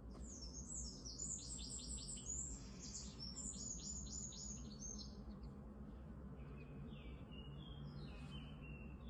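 Songbird singing: a rapid run of high, quick notes for about five seconds, then slower, lower notes, over a faint steady low background rumble.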